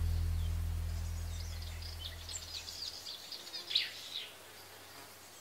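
Low background music notes fading out over the first few seconds, while small birds chirp in quick, short high calls, the loudest about four seconds in.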